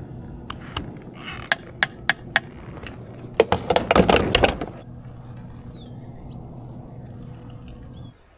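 A series of sharp knocks, then a burst of clattering about three and a half seconds in, over a steady low hum that cuts off near the end.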